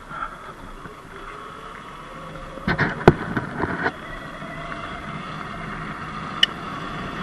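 Sur-Ron X Light Bee electric dirt bike riding on a dirt road: the electric motor's whine, tyre noise and wind building as it picks up speed. There is a cluster of sharp knocks about three seconds in and a single click near the end.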